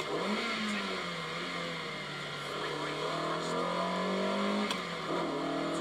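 BMW E30 M3's four-cylinder engine pulling hard, heard from inside the cabin of the rally car. The engine note climbs slowly, then drops sharply about five seconds in, with a brief dip and rise near the start.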